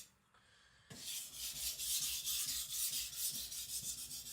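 AEB-L steel gyuto blade being ground on a whetstone in quick, evenly repeated back-and-forth strokes, a scraping hiss that starts about a second in after a brief pause. The blade is being thinned behind the edge, the very hard steel barely cutting into the stone.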